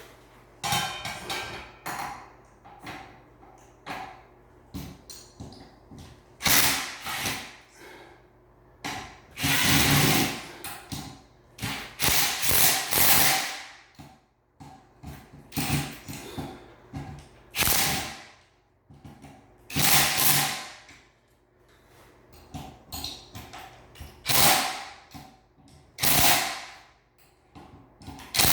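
Cordless drill driving the small screws of a fan blade assembly in a string of short bursts, with lighter clicks and knocks of handling in between.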